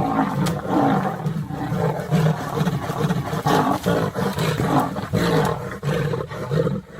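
Big cats roaring and snarling in a close run of short calls, one after another.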